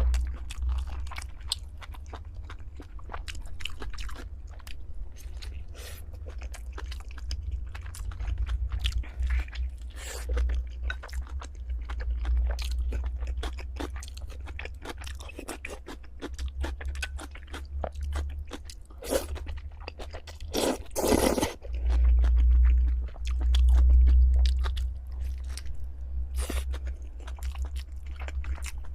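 Close-miked chewing of food in an eating show: dense, irregular wet mouth clicks and crunches over a low rumble, with a louder burst about twenty seconds in.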